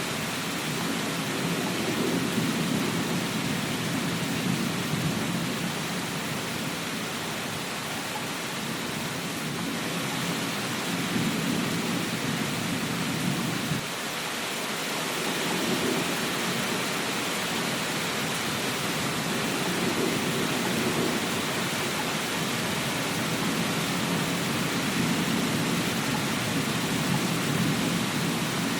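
Steady rain hissing, with a low rumble underneath that swells and fades every few seconds. There is a brief dip in level about halfway through.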